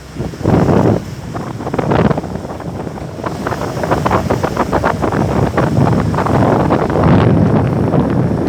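Wind buffeting the microphone in loud, uneven gusts, with a fluttering rumble.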